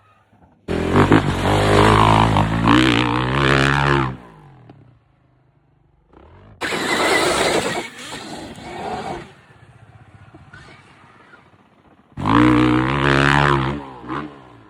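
Dirt bike engines revving hard in three loud bursts, their pitch climbing and dropping with the throttle.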